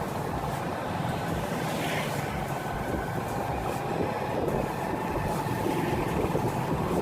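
2019 Honda Pridor motorcycle engine running steadily while riding along a road.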